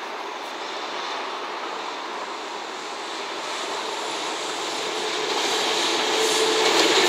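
An EF210 electric locomotive hauling a freight train of flatcars loaded with rails, drawing near and passing: a steady running noise that grows louder over the last few seconds as the locomotive comes close.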